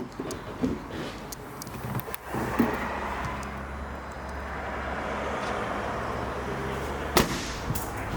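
A few light knocks and clicks, then about two seconds in a Range Rover's engine starts and settles into a steady idle. A single sharp knock comes near the end.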